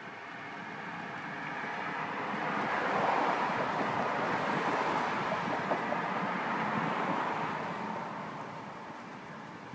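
A vehicle driving past: its road noise swells over about three seconds, holds, then fades away over the next several.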